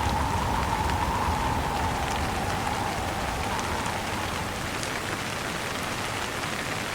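Steady rain falling, with scattered drop ticks, under wind. The low rumble of the wind eases off after the first few seconds.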